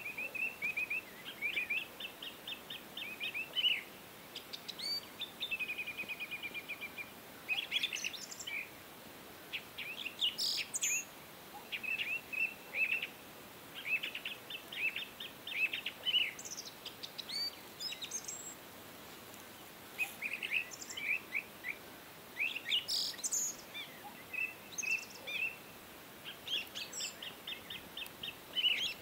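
Small birds chirping and twittering in series of short, quick chirps and trills, phrase after phrase with brief gaps between, over a faint steady hiss.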